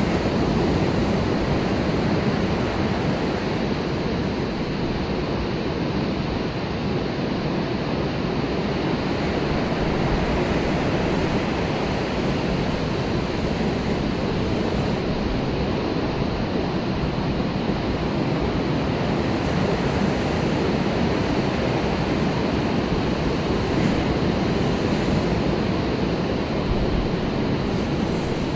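Pacific Ocean surf washing steadily onto the beach, with wind rumbling on the microphone.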